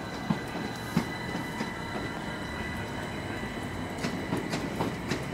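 Electric multiple-unit train moving through the station, with a steady rumble and a thin, steady electric whine. Its wheels click sharply over rail joints twice early on, then several times in quick succession near the end.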